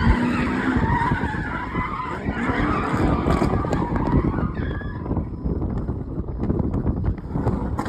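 Car tires skidding and sliding, with the engine running, as a car drifts.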